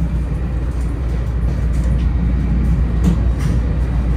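Steady low cabin rumble of a 500 Series Shinkansen running along the line, with a few faint clicks and rattles.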